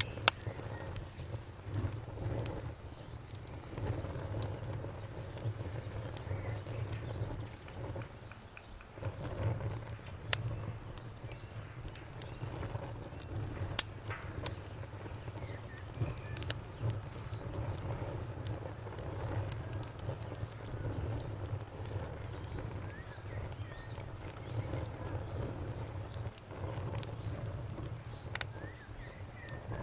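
Campfire crackling: burning wood gives off irregular sharp pops and snaps, the loudest a little under halfway through, over a low fluttering rumble of the flames.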